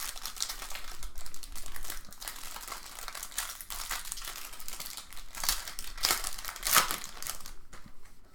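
Wrapper of a pack of baseball cards crinkling and tearing as it is opened and handled, with louder crackles about five and a half, six and seven seconds in.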